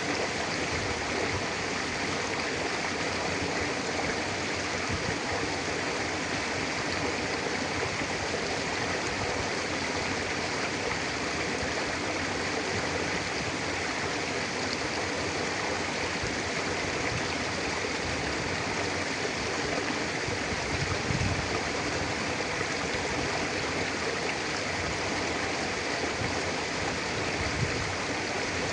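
A mountain river flowing steadily over rocks, a continuous rushing and burbling of water.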